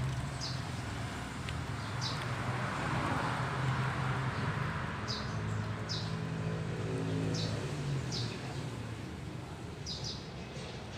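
An engine running steadily in the background, with a small bird giving short chirps every second or so.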